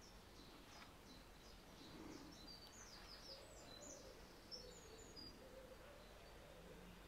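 Near silence: faint room tone with small birds chirping in a run of quick, short, high notes, thinning out after the middle.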